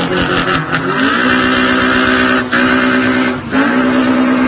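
Car engine revved up and held at a steady high speed, easing off briefly about three and a half seconds in before climbing back, then cut off abruptly.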